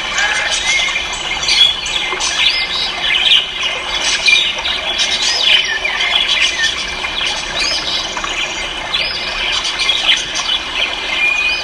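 Many caged ornamental birds calling at once: a dense, continuous chorus of overlapping chirps and squawks, each call a short up-and-down sweep in pitch.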